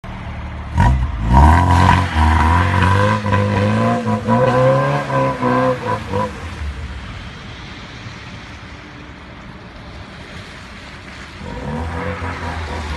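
Tofaş Doğan's engine revving hard under repeated throttle as the car drifts on snow, starting suddenly about a second in. It drops to a low, quieter running sound after about six seconds, then revs up again near the end.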